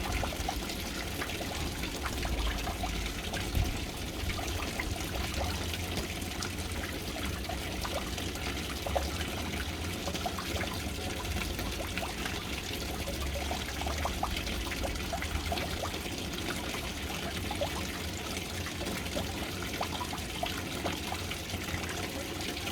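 Water pouring in a steady trickling stream into a household water storage tank through its float valve, splashing onto the water surface.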